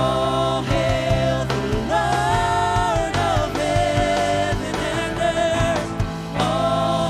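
Live gospel-style worship music: sustained sung notes with vibrato over keyboard pads, bass and drums.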